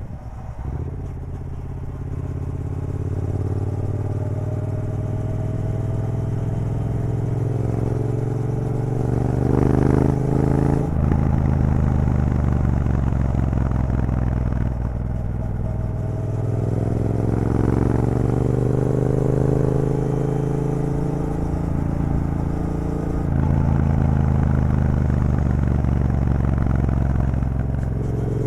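Triumph Bobber's 1200 cc parallel-twin engine on the move through an aftermarket Vance & Hines exhaust with the catalytic converter removed, running loud. Revs climb slowly under throttle, drop back about 11 seconds in, then climb again and drop back once more near the end.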